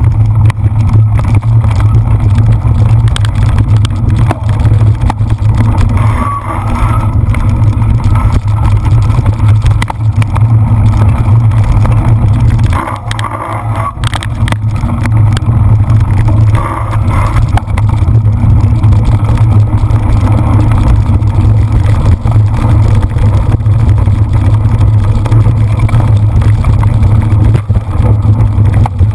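Loud, steady wind rumble on the microphone of a camera carried on a racing cyclocross bike, with small knocks from the ride over rough ground.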